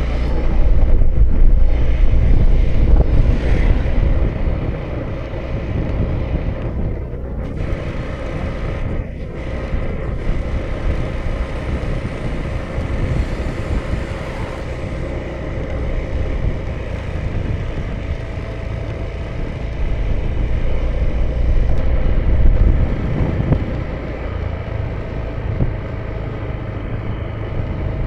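A 2018 Honda Vision scooter's small single-cylinder engine running at a steady cruise, with a faint steady whine, under heavy wind rumble on the action camera's microphone. The wind swells in gusts about two seconds in and again a little past twenty seconds.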